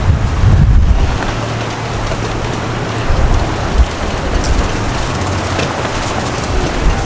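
Busy city street ambience: a steady wash of crowd and traffic noise, with wind rumbling on the microphone for about the first second.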